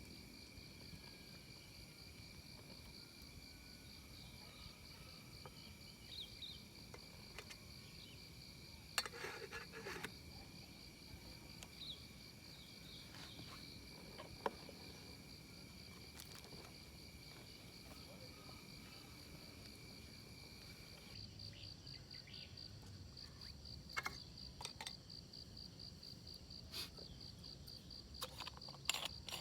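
Faint insects trilling steadily outdoors: one high, rapidly pulsing trill throughout, and a lower steady trill that stops about two-thirds of the way through. A few short clicks and rustles break in, in the middle and near the end.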